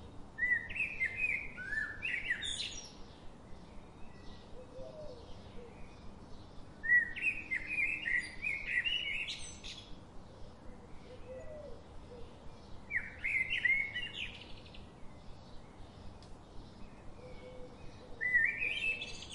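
A songbird singing a short, quick phrase of high chirping notes, repeated four times about every five to six seconds, over faint, evenly repeated chirps and a soft background hiss.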